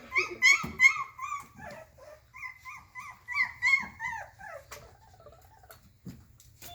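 Doberman puppies whining and yipping: a quick run of short, high-pitched cries, several a second, trailing off into softer whimpers about four and a half seconds in.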